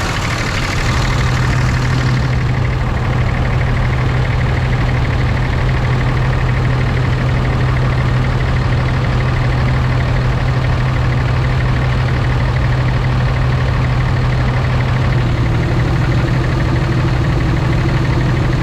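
2006 Ram's 5.9 L Cummins diesel idling steadily with the exhaust brake engaged, which gives it a different note, like a semi's exhaust brake. About fifteen seconds in the tone shifts slightly.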